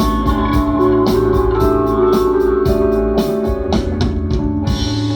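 Live rock band playing an instrumental passage: sustained organ and guitar chords over a steady drum beat. The drums stop near the end, leaving a chord ringing out as the song ends.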